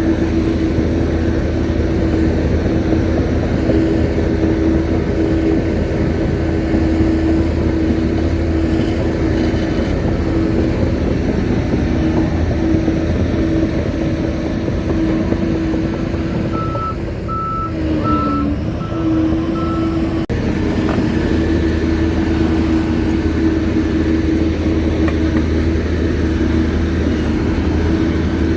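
Shantui bulldozer's diesel engine running steadily with a steady whine. About two thirds through the engine drops and the reverse alarm gives several short beeps as the dozer backs up.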